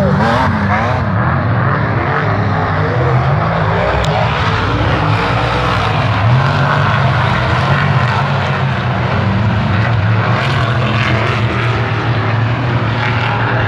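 Off-road race vehicle's engine running hard at full throttle, its pitch rising and falling as it accelerates and changes gear.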